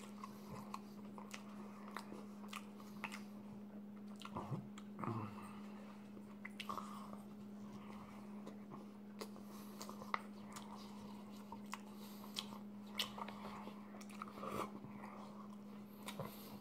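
Quiet close-up mouth sounds of a person biting and chewing a Double Big Mac burger: soft, irregular wet clicks and smacks. A steady low hum runs underneath.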